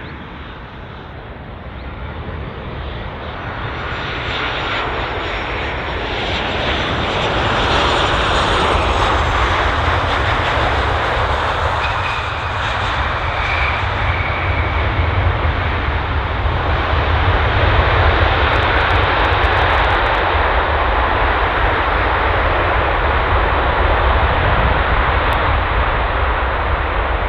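Jet2 jet airliner landing: engine whine grows louder as it approaches, with a falling high whine a few seconds in. A long, steady rush of engine noise follows through the landing roll.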